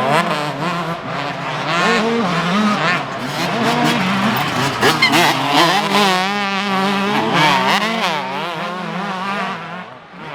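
Several motocross bikes racing on the track, their engines revving up and down as they accelerate and shift, with overlapping engine notes rising and falling.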